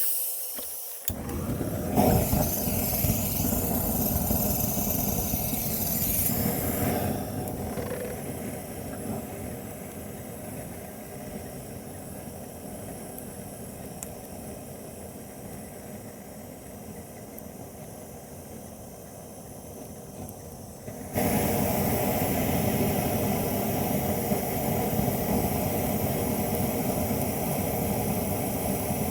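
A vehicle engine running steadily. It eases off somewhat partway through, then jumps abruptly louder about 21 seconds in.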